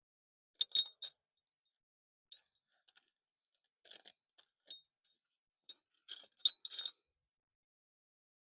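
Metal sockets clinking against each other in four short bursts with a brief bright ring, the sound of sorting through a socket set for the right size.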